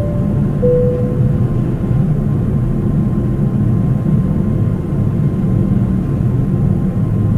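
Steady low rumble of a Boeing 777's jet engines, with a faint constant whine above it. At the start, two short tones sound one after the other, the second lower.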